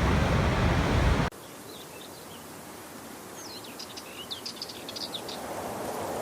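Loud, steady rush of a waterfall that cuts off abruptly about a second in. It gives way to a quieter rush of running water, with small birds twittering in quick chirps midway. The water grows louder again near the end.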